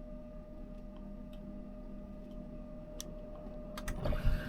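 Steady low hum with a faint high tone and a few light clicks as a small camper air conditioner powers up. A louder, rougher noise comes in near the end.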